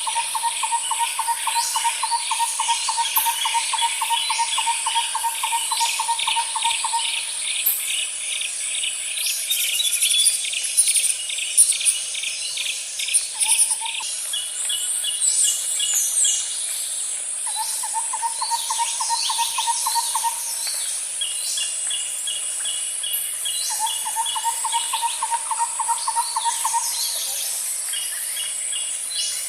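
Nature soundscape of animal calls: a low, rapid trill about seven seconds long, then shorter trills every few seconds. Over it run faster, higher chirping trills and a steady high-pitched insect drone.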